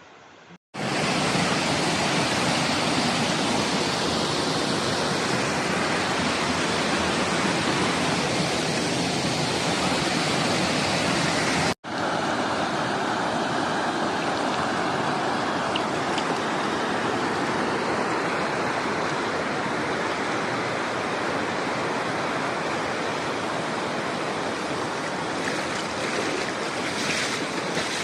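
Waterfall: a steady rush of falling water that starts abruptly about a second in, with a momentary dropout near the middle.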